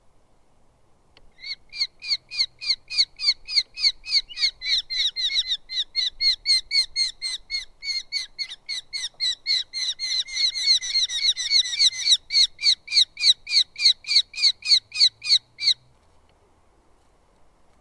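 Eurasian hobby calling a long, rapid series of sharp, evenly repeated notes, about three a second. Around two-thirds of the way through, a second bird's calls overlap, and then the calling stops abruptly.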